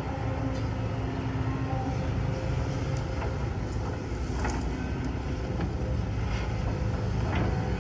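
Diesel engine of heavy earthmoving machinery running steadily, with a few faint knocks about halfway through and near the end.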